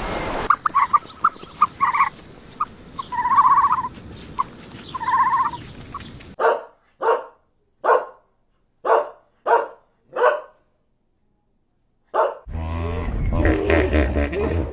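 A string of short, high chirping animal calls, then a dog barking: six barks about two thirds of a second apart, and one more after a pause. Near the end another animal sound with a low rumble begins.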